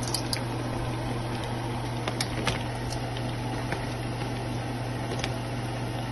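Coconut-milk-soaked cassava bammy pieces frying in hot oil: a steady sizzle with scattered sharp pops, over a steady low hum.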